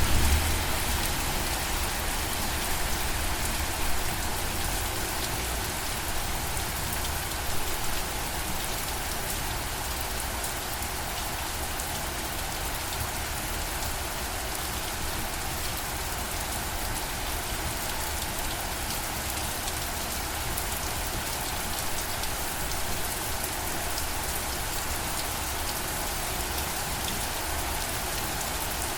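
Steady rain falling on a surface, with a constant hiss and fine patter of drops; it swells slightly a few times in the first eight seconds.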